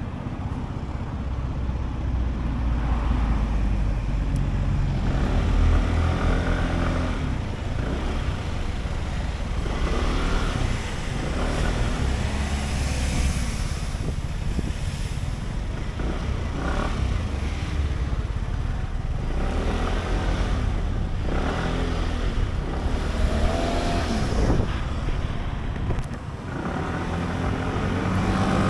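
Sym Jet X 125 scooter's single-cylinder engine running on the move, its pitch rising and falling a few times, under heavy wind rumble on the mic and the noise of surrounding traffic.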